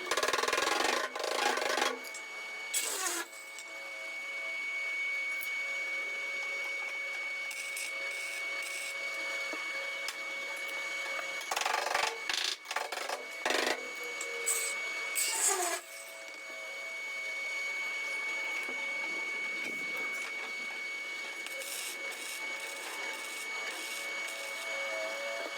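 Metal bodywork on a steel car rear guard: several short, harsh bursts of tool-on-metal noise, some lasting a second or two, over a steady high whine.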